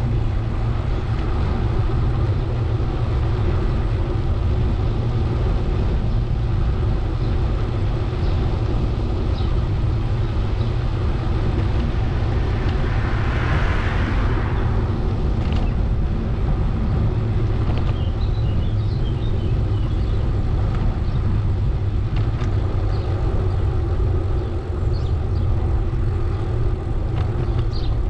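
Steady low rumble of wind and road noise on the microphone of a camera riding along on a bicycle, with a swell of hiss about halfway through.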